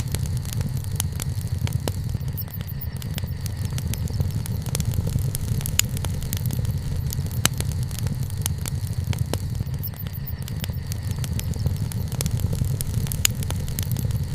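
Wood campfire burning: frequent sharp crackles and pops at irregular intervals over a steady low rumble.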